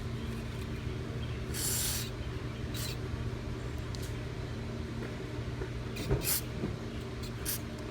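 A short hiss of aerosol carburetor cleaner sprayed into the carburetor's idle-circuit passage about a second and a half in, followed by a few light clicks of handling the parts, over a steady low hum.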